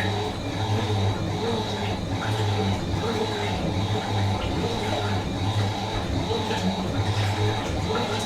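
Fisher & Paykel MW512 washing machine running: a low hum that swells and fades about once a second, with a faint steady high whine over it.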